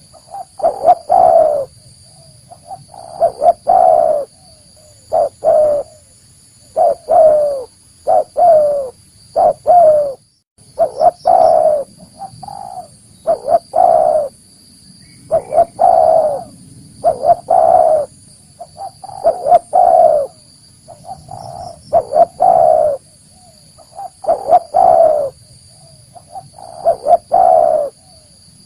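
Spotted dove cooing: short phrases of a few low coos, repeated about every two seconds.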